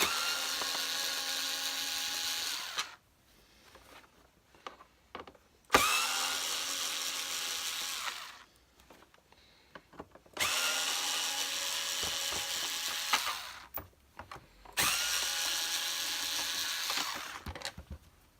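Battery power drill-driver backing out four screws, one at a time. Each run lasts about two and a half seconds, and its motor whine rises in pitch as it spins up, then holds steady until it stops, with short pauses between the screws.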